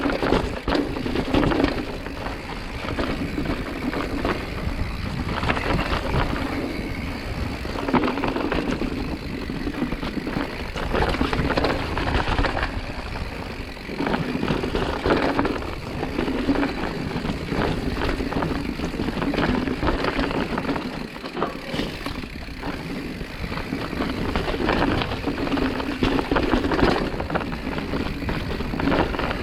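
Mountain bike rattling and clattering as it is ridden over rough bike-park ground, a continuous stream of knocks with a rushing noise that swells and fades.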